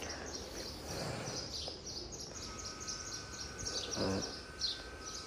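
Small birds chirping, a quick string of short high notes repeated throughout, over a low background hum of outdoor noise.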